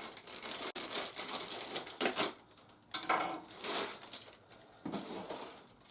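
Plastic toy parts and their packaging being handled: rustling with light clicks and clatter, coming in short bursts with quieter gaps between.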